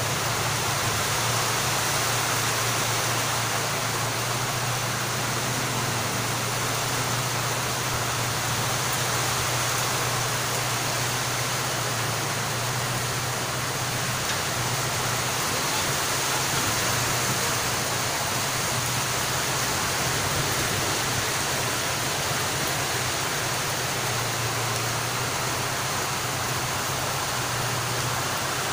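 Heavy rain falling, a steady even hiss with a low steady hum underneath.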